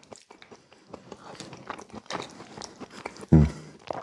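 A man chewing a mouthful of baked beans, with many small wet clicks and smacks, and one brief voiced sound a little past three seconds in.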